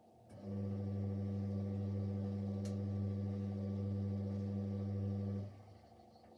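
Siemens Siwamat Plus 574 washing machine's motor humming steadily for about five seconds as it briefly turns the drum in the anti-crease phase after the spin, then cutting off.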